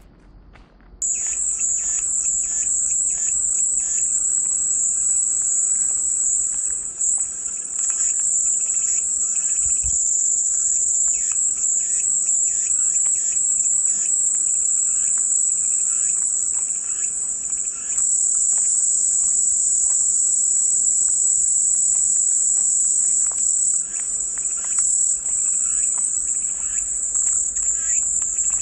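Cicadas buzzing in a steady, high-pitched drone that cuts out for about a second at the start, then resumes.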